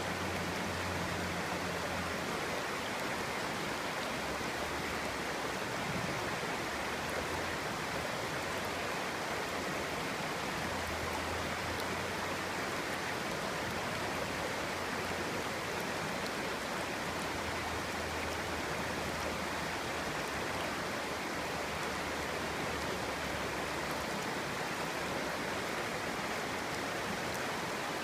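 Clear stream's water babbling steadily.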